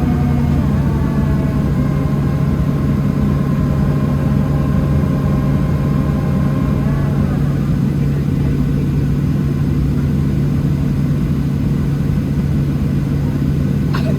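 Steady cabin drone inside a Boeing 737-700 on the ground, its CFM56 jet engines running at idle: a low hum and rumble, with a higher whine that fades out about seven seconds in.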